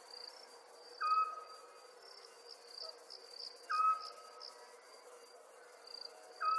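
Night chorus of crickets trilling steadily. Over it, a short animal call repeats three times, about every three seconds; each call starts with a quick drop in pitch and then holds one note briefly.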